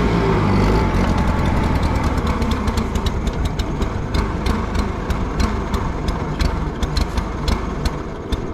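Allis-Chalmers G tractor engine running. Its steady note drops about half a second in, and then it runs unevenly, with irregular crackling pops, a sign of the stale gas and gummed-up carburetor that the owner suspects.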